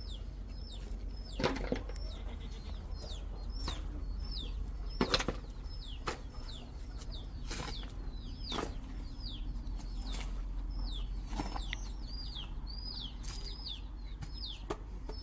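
Small birds chirping over and over, short high falling notes about two or three a second, with a few sharp knocks scattered through, the loudest about a second and a half in and about five seconds in.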